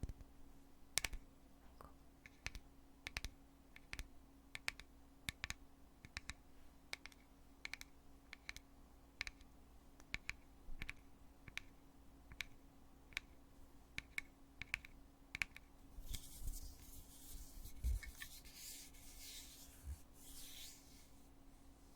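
Lid of a foundation container clicking open and shut again and again, a sharp click about every two-thirds of a second. After about sixteen seconds the clicking gives way to a few seconds of scratchy rubbing.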